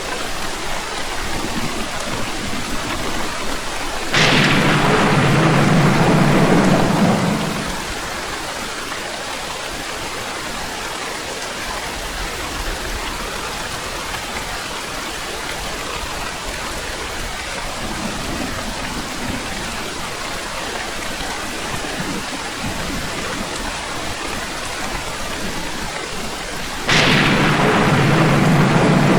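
Steady heavy rain hissing, broken by two sudden loud thunderclaps, one about four seconds in and one near the end, each sounding for about three seconds. A faint low rumble of thunder comes in the middle.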